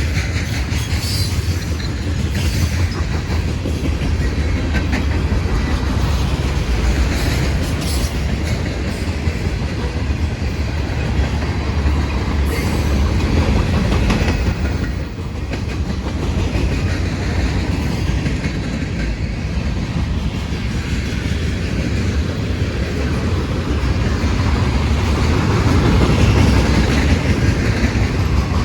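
A freight train's cars rolling steadily past, their steel wheels clacking over the rail joints.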